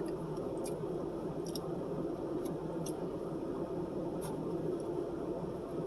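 Eating sounds: a few short, wet mouth clicks and smacks while chewing, over a steady low background hum.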